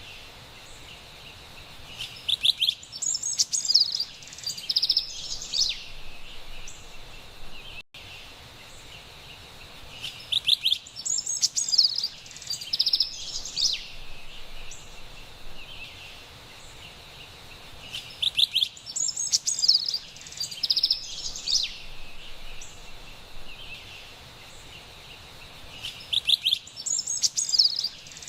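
Carolina wren singing: a loud, rapid phrase about three seconds long, repeated four times at even eight-second spacing, over a steady high-pitched background hiss.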